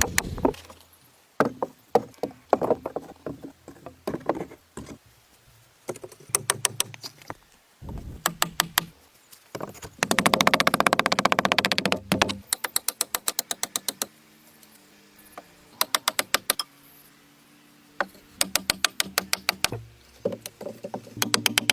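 Repeated knocking and striking blows in quick runs. About halfway through comes a denser, rapid run of strokes, and between runs there are short pauses.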